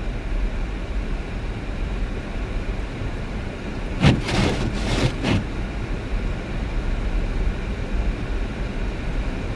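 Steady low rumble of a car driving, with a brief rush of hissing noise about four seconds in that lasts a little over a second.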